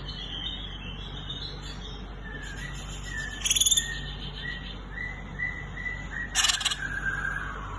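Cucak ijo (green leafbird) calling: a string of short whistled notes, broken by two louder calls, one about a third of the way in and a harsher, buzzier one near the end.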